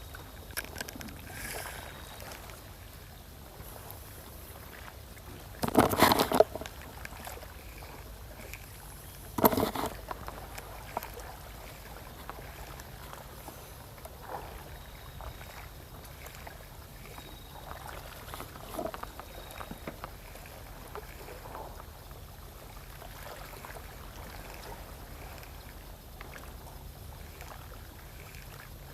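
Sea water lapping and sloshing steadily against the shore, with small scattered clicks and two brief loud noises, about six seconds in and again some three seconds later.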